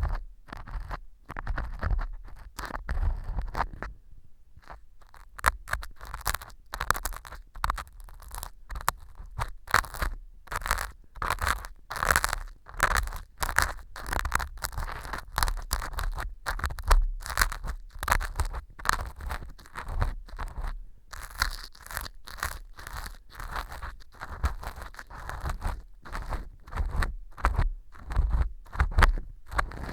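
An ear pick scraping and crunching at pieces of fu (dried wheat gluten) glued on as fake earwax, the fu hardened with soaked-up glue, in quick irregular scratchy strokes with a brief pause about four seconds in.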